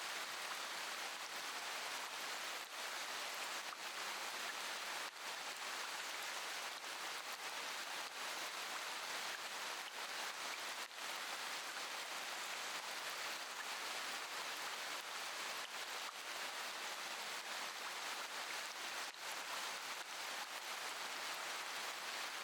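Steady rain falling, an even hiss that dips briefly a few times.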